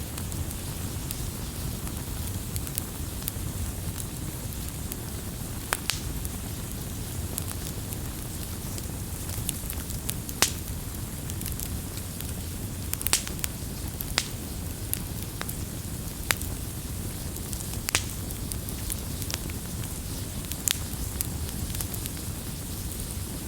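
Wood campfire burning with a steady low rumble and irregular sharp crackles and pops, a few louder snaps scattered throughout.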